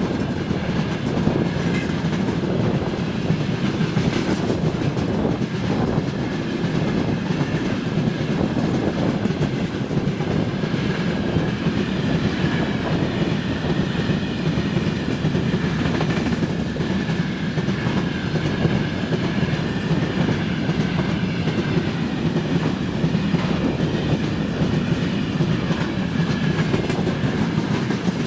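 Freight train wagons rolling steadily past, the wheels clattering over the rail joints, with a thin steady high squeal from the wheels running through.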